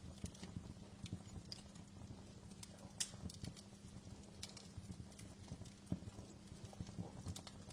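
Wood fire crackling over a low steady rumble, with irregular sharp pops, two of them louder about three and six seconds in.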